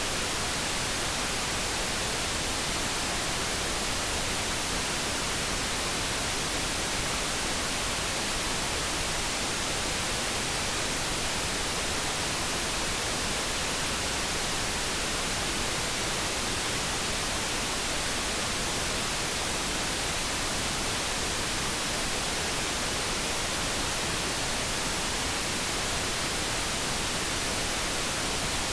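Steady synthetic noise: an even, unchanging hiss spread across the whole range, with no tone, hum or break in it.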